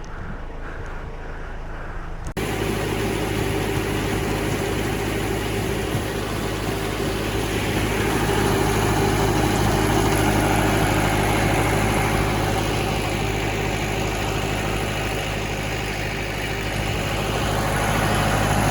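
The ferry's 57 hp diesel engine running steadily at close range, with a constant low hum. It starts abruptly about two seconds in and grows a little louder partway through.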